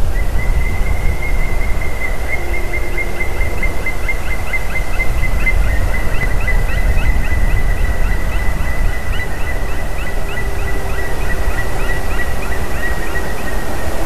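A long series of short, quick falling calls, about four a second, over a steady high whistle-like tone, with the low rumble of wind on the microphone underneath.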